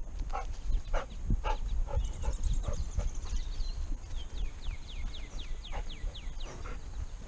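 A dog walking with a harness-mounted GoPro: steps and knocks of the harness and camera about twice a second over a low rumble of handling. A bird sings a fast run of falling whistled notes about two seconds in, and again midway.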